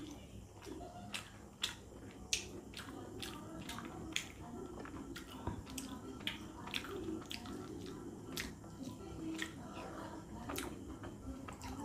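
Close-miked eating sounds: a person chewing chicken curry with panta bhat (water-soaked rice), with wet chewing, smacking and many sharp, irregular mouth clicks.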